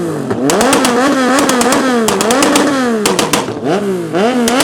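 Volkswagen Jetta's engine being revved hard on a two-step limiter, the revs climbing and dropping about once a second, with the exhaust crackling and popping in rapid bangs throughout.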